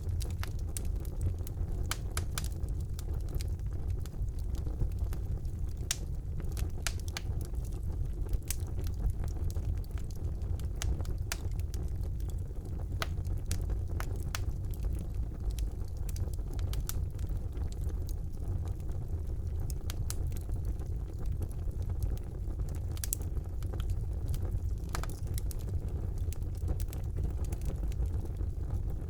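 Wood fire burning in a fireplace: a steady low rumble of the flames with frequent sharp crackles and pops at irregular moments.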